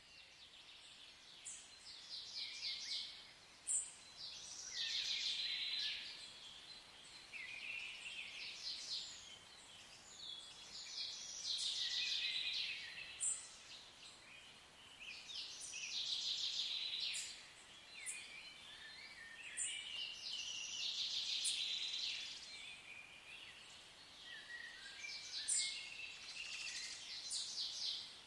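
Birdsong: a songbird repeating trilled phrases about every four seconds, with short, sharp high chirps in between.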